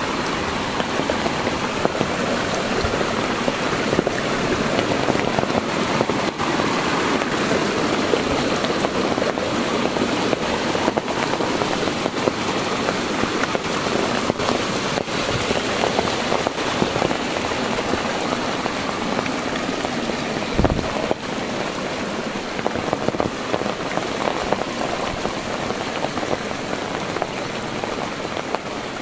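Heavy rain falling steadily on foliage and the ground, with one brief low bump about two-thirds of the way through.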